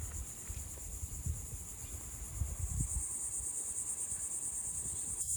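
Insects buzzing in a steady, high-pitched chorus that grows louder and pulses rapidly about three seconds in, over a low, uneven rumble.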